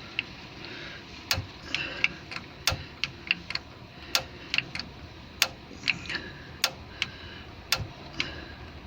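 Gas water heater's pilot igniter clicking repeatedly as it sparks to light the pilot: a sharp click about every second and a quarter, with fainter clicks in between.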